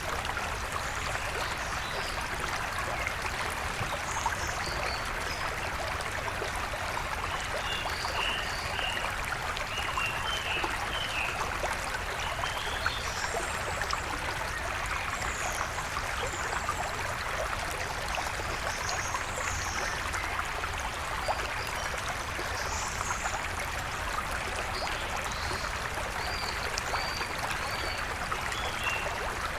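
A stream flowing with a steady rush of water, with wild birds calling over it now and then in short, high chirps and trills.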